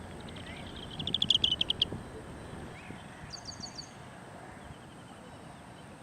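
Wild bird calls: a fast trill of sharp notes lasting almost two seconds and growing louder, then a short burst of about five higher, quicker notes. A faint steady high whine runs underneath.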